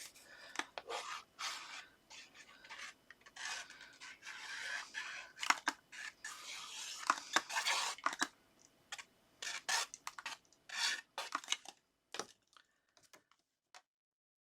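Paper and card being handled and rubbed down by hand as a sheet is stuck onto a mat layer: irregular rustling, scraping and light taps that die away near the end.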